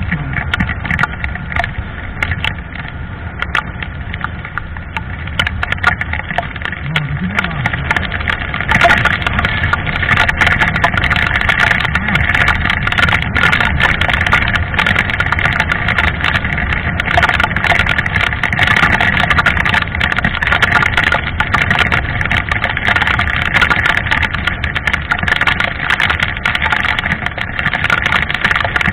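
A motorcycle engine running steadily while riding, mixed with road noise. The sound gets louder about eight seconds in.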